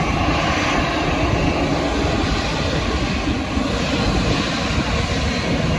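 Jet airliner engines running, a steady loud rushing noise with low rumble and a faint whine.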